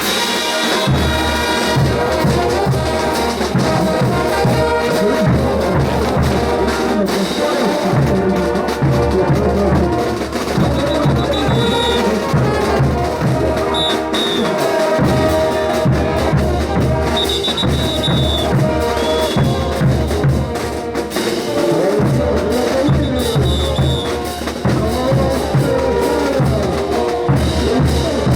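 Bolivian brass band playing ch'uta dance music: trumpets and trombones over a steady drum beat, loud and continuous.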